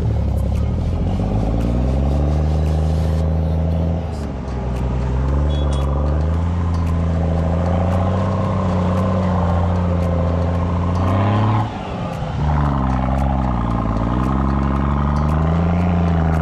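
Off-road 4x4's engine running hard under load, its pitch rising and falling as the throttle is worked. It drops off sharply about three quarters of the way through, then picks up again.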